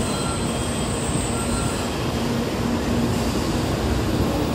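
Tokaido Shinkansen train pulling in along the platform, a steady rush of running noise from its wheels and motors.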